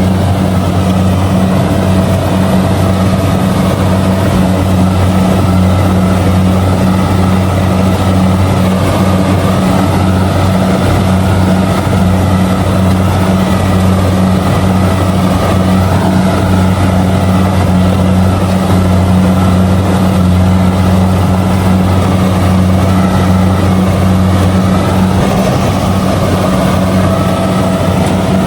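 Kubota DC70G combine harvester's diesel engine running steadily under load while it harvests rice, with a constant deep drone and the rattle of the machinery.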